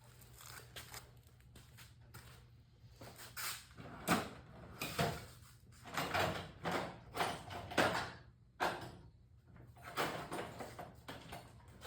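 Small carburetor parts and tools being handled on a workbench: a dozen or so irregular clicks, knocks and scrapes, over a steady low hum.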